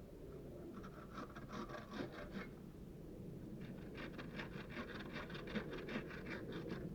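A hand tool working wood: rapid, rhythmic scraping strokes in two spells, the second beginning about three and a half seconds in.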